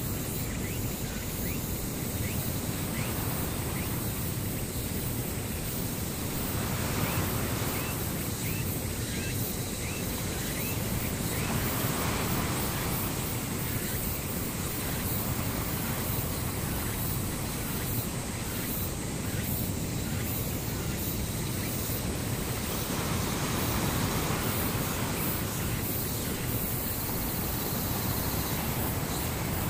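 Steady rushing noise, like ocean surf, swelling and easing every few seconds.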